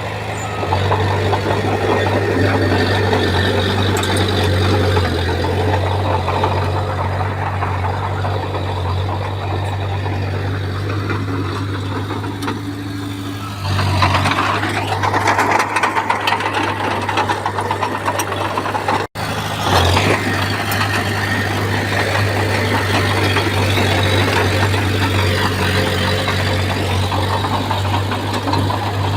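Bulldozer diesel engine running steadily with a deep, even drone; a little past halfway it gets louder and harsher, as under load, and there is a sudden break of a fraction of a second a few seconds later.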